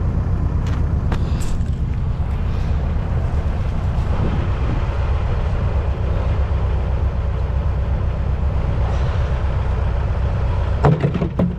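Engine running steadily with a low rumble. A few sharp clicks come near the end.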